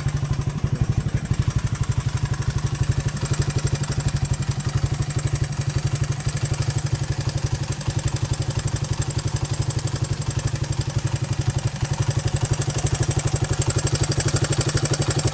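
1980 Honda XL185S single-cylinder four-stroke engine idling steadily in rapid, even pulses, with a mechanical noise that the owner thinks is piston slap.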